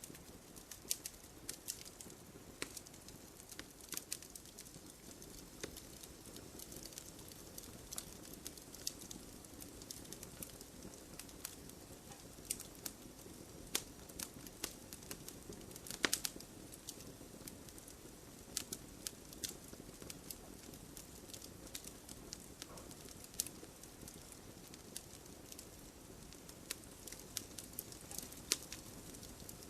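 Campfire crackling: irregular small pops and snaps over a soft steady hiss, with one louder pop about halfway through.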